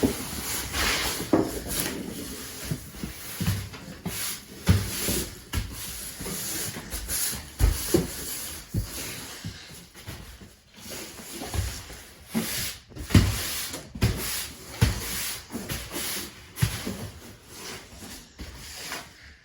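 Irregular knocks, low thumps and rustling scrapes of boards and debris being handled and set down during a floor tear-out.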